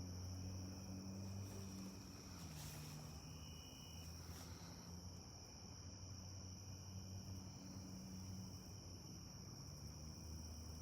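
Faint, steady chorus of crickets, one high unbroken trill, over a low steady hum that dips in pitch briefly about three seconds in.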